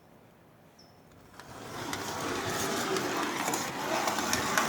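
Lionel electric toy train running on its track, motor whirring and wheels clattering over the rails. The sound grows louder from about a second and a half in.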